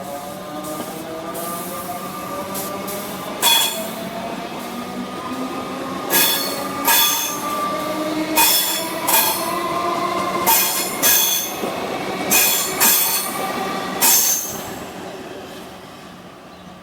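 Electric suburban train running through the station, its motors giving off a rising whine as it gathers speed. About ten short, sharp wheel squeals follow over the next ten seconds, then the train fades away.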